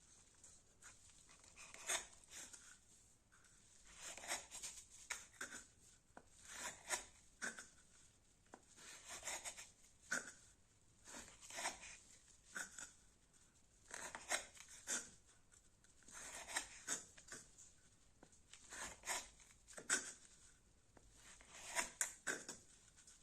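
Fixed-blade knife making repeated cutting strokes, heard as clusters of short scraping cuts about every two seconds.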